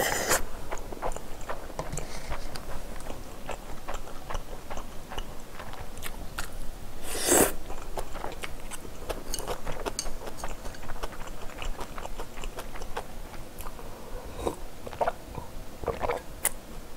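Close-miked chewing and biting of food, with many small wet mouth clicks, and one louder, longer noise about seven seconds in.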